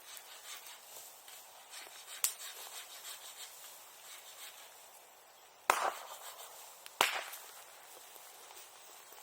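Bamboo bonfire crackling, with a sharp pop a little over two seconds in and two loud bangs about six and seven seconds in, the bangs of sealed bamboo sections bursting in the heat.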